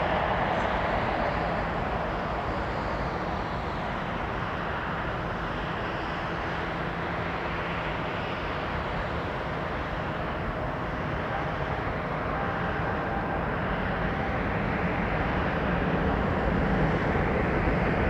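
Passenger jet airliner noise: a steady rushing rumble that eases slightly in the middle and swells again near the end, with a faint engine whine.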